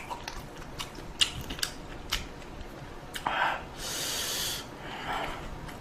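Eating sounds from a bowl of ramen: scattered light clicks and taps of utensils, with a short noisy burst and an airy rush, like a slurp, a little past the middle.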